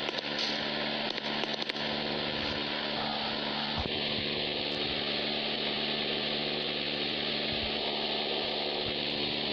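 A steady mechanical hum with an even hiss over it, with a few crackling clicks in the first two seconds.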